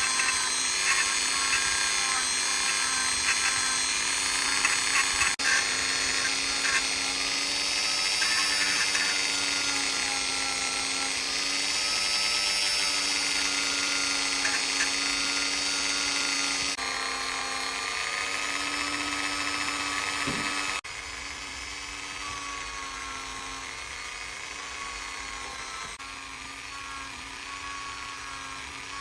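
Small electric rotary tool running steadily with a high whine, the sound changing abruptly about 5, 17 and 21 seconds in.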